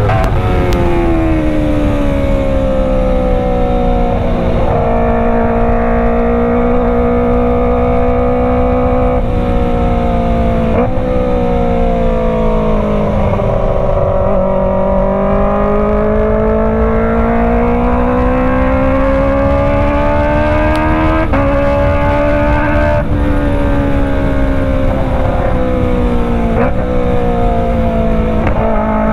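Kawasaki ZX-25R's 250 cc inline-four engine running through a Racefit Slash full-system exhaust while riding. Its pitch climbs and sags with the throttle and jumps abruptly about half a dozen times at gear changes.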